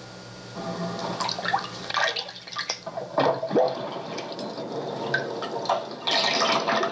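Recorded water sound effect played back from a stereo cassette on a 1976 Sony TC-520CS: short gurgles and drips, then a louder rush of water about six seconds in. Tape hiss and a low hum are heard under it, and alone for the first half second.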